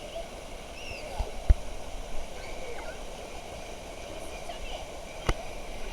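Water-park ambience: running water and distant children's voices, with a sharp thump about a second and a half in and a click near the end.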